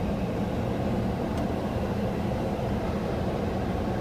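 Steady low rumble and rush of noise heard inside a car's cabin at a car wash, with a faint tick about a second and a half in.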